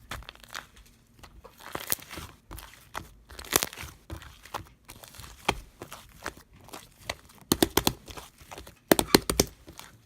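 Blueberry sherbet slime being squished and pressed by hand, giving irregular sticky crackles and pops, with quick clusters of snapping pops near the end.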